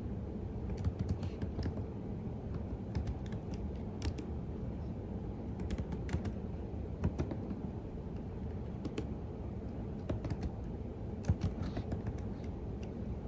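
Typing on a computer keyboard: irregular, unhurried keystrokes with short pauses, over a steady low background hum.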